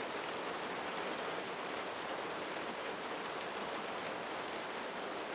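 Steady rain falling, a soft even hiss with faint drop patter.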